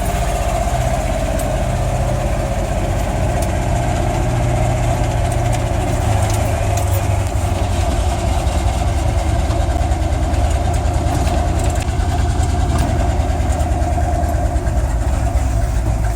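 Old pickup truck's engine running steadily as the truck drives along at an even pace, a constant low drone.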